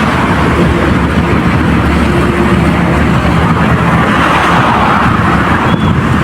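An engine running steadily under a loud rushing noise, with a short high chirp near the end.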